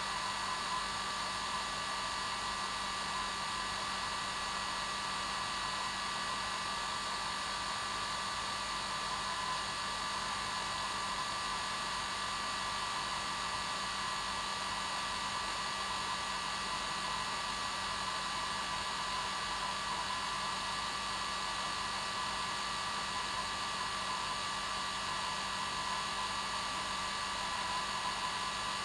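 Electric hair dryer running steadily: an even blowing hiss with a constant motor hum and whine that never changes.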